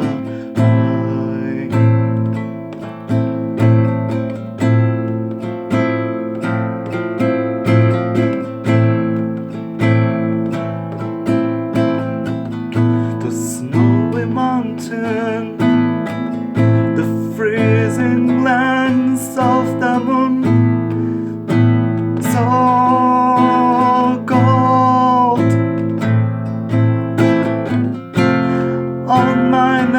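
Classical guitar playing a picked, arpeggiated melody over a repeating bass note. From about halfway through, wordless sung notes, held with vibrato, join in.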